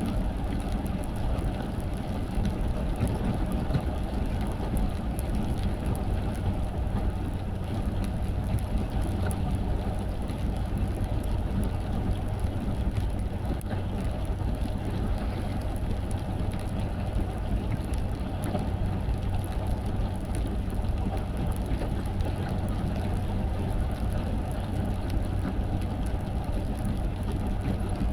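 Car driving steadily on a wet road in the rain: a low, even engine and road hum with tyre hiss and faint scattered ticks.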